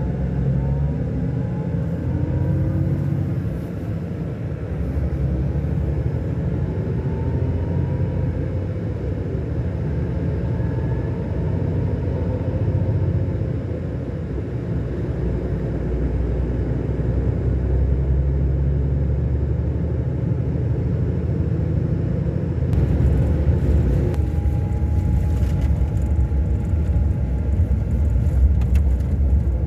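Scania K-400 coach's diesel engine running under way, a steady low rumble with its pitch gliding up and down a little. A brighter hiss joins about 23 seconds in.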